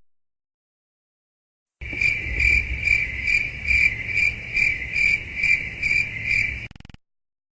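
Crickets chirping in a steady, even rhythm of about two chirps a second, over a faint low rumble. The chirping starts about two seconds in and stops abruptly about a second before the end.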